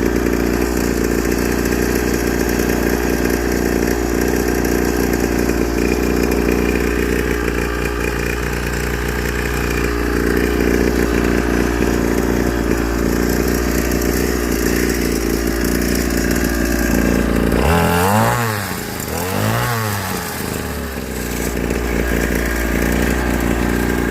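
Small two-stroke engine of a budget mini dirt bike running steadily, then revved up and back down twice near the end.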